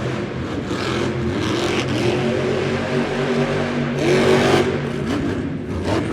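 Monster truck's supercharged V8 revving hard, its pitch climbing and dropping again and again, loudest about four seconds in.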